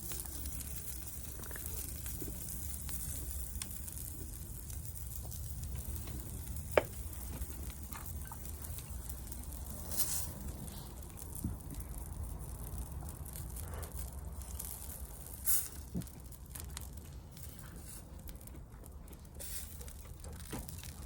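Food sizzling as it fries over a campfire, a steady hiss broken by a few sharp clicks or crackles.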